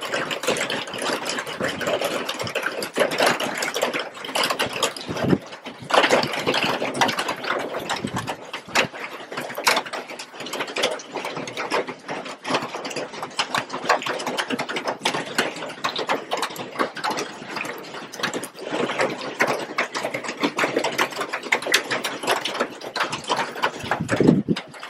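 Heavy rain pouring down, a dense steady patter of drops splashing into standing water and on concrete.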